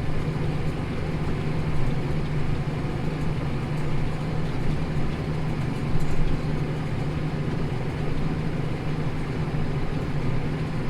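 Tractor engine running steadily under ploughing load, heard from inside the cab as an even drone.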